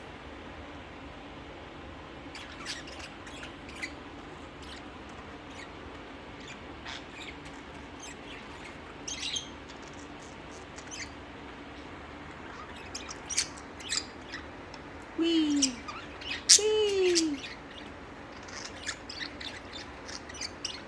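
Pet budgerigars chirping and twittering on and off, with a louder run of calls about fifteen seconds in.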